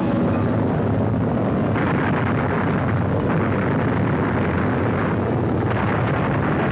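Dense, steady rumbling noise of battle sound effects on an old wartime film soundtrack, changing character abruptly a few times as the footage cuts.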